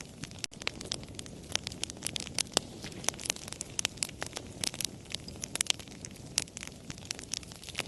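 Campfire crackling: many irregular sharp pops and snaps, several a second, over a steady low rush of burning.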